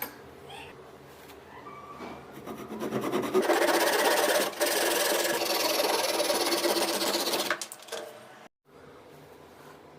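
Small electric power tool motor spins up, runs for about four seconds with a dense buzzing whir, then cuts off.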